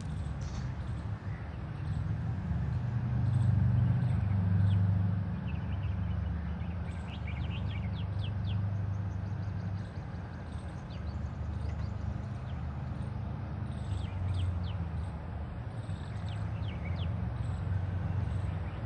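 Birds chirping in short, quick clusters over a steady low outdoor rumble.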